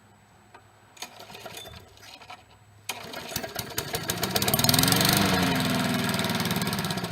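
Push mower's small engine being pull-started from cold: after a rough first try it catches about three seconds in, revs up, then slowly drops in speed and level.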